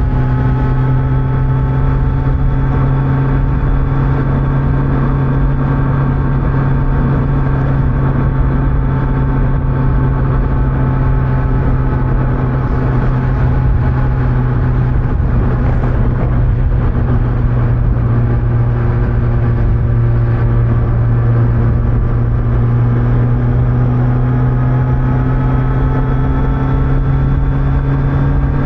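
Kawasaki Z900's inline-four engine on stock exhaust, cruising at a steady speed with wind and tyre noise. Its pitch eases slightly, then climbs gently in the second half.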